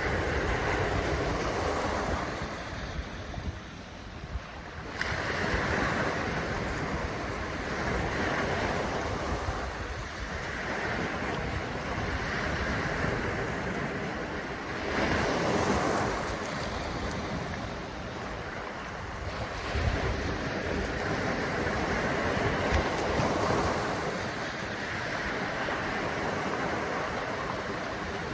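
Rushing wind and wave noise, with wind buffeting the microphone; the rush swells and eases every few seconds.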